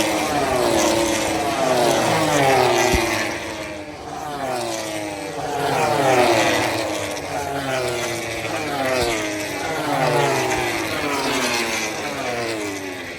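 MotoGP racing motorcycles at full race speed, several engines heard at once, their high engine notes falling in pitch again and again as the bikes pass by or brake.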